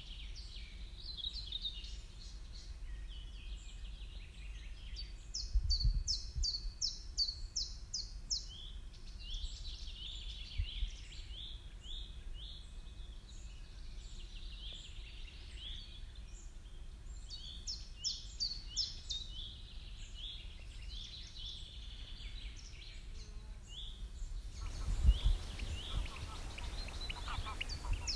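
Songbirds singing: quick runs of high, falling notes, several a second, repeated throughout, with a couple of low rumbles about six seconds in and near the end.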